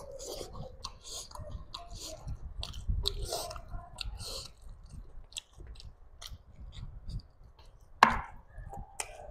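Close-miked chewing of chicken curry wings, eaten by hand: a run of small irregular mouth clicks and smacks, with one sharper, louder click about eight seconds in.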